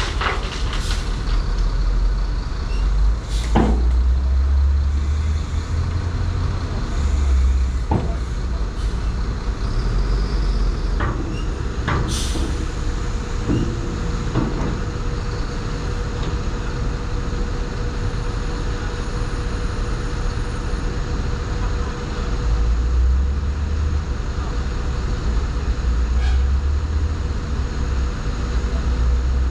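Heavy diesel earthmoving machinery running with a deep rumble that swells and eases, broken by several sharp knocks or clanks, the loudest about twelve seconds in.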